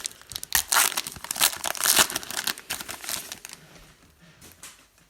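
A foil football trading-card pack being torn open and crinkled: a dense crackling that dies away about three and a half seconds in, leaving a few faint rustles.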